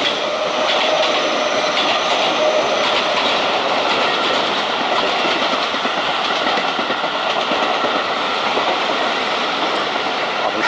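Keio Line electric commuter train passing close alongside, its wheels running over the rails in a loud, steady rush.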